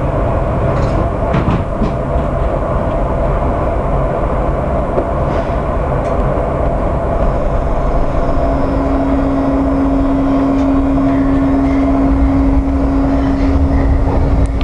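Washington Metro Orange Line train running in an underground station: a loud steady rumble of wheels on rail with a few clicks early on, joined about halfway through by a steady humming tone, the whole getting slightly louder near the end.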